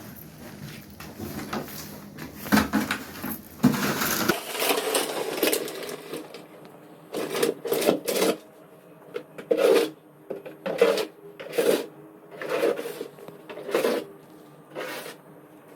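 Snow shovel scraping over pavement in short strokes, about one a second from around seven seconds in, after a stretch of rustling and handling noise.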